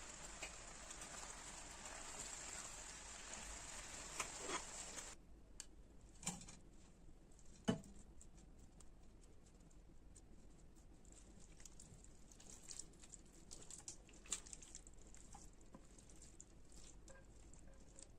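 A faint steady hiss that cuts off suddenly about five seconds in, followed by scattered light taps and clicks.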